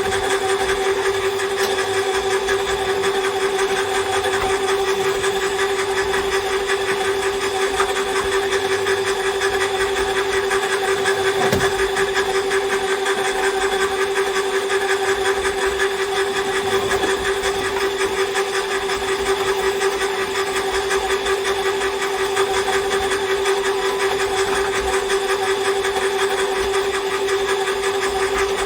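Electric cable stripping machine running steadily with a constant motor whine, pulling earth cable off a drum through its blades.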